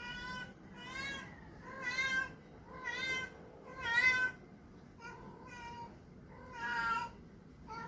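Male Persian cat calling in a run of about seven short meows, roughly one a second, the loudest near the middle: a tom's calls while seeking a mate.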